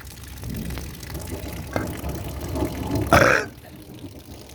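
Thunder rumbling and building, with a short, loud crack about three seconds in, then dying back down.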